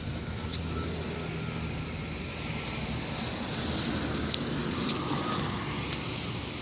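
Steady road noise of passing vehicle traffic, an even rumble with a few faint clicks.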